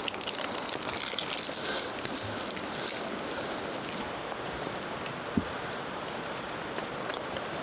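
Steady hiss of rain and wet snow falling, with many small scattered ticks of drops and one soft knock about five seconds in.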